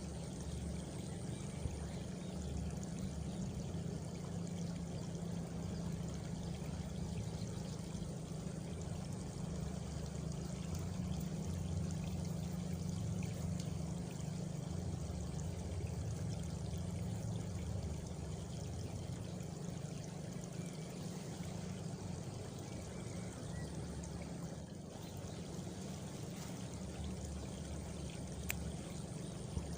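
Steady, unbroken rush of flowing water, heaviest in a low rumble.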